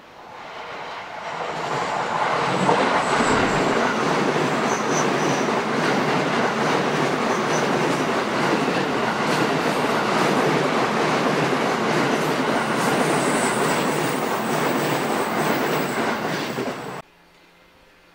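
A train passing close by on a curve, its wheels clattering over the rail joints, with faint high squeals from the wheels. The sound builds over about two seconds as it comes near, holds, then cuts off suddenly near the end.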